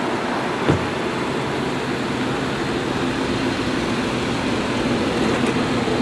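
Automatic car wash machinery running steadily, a continuous rushing noise, with one brief knock a little under a second in.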